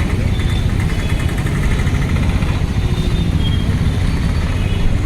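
Engine running steadily with a continuous low rumble.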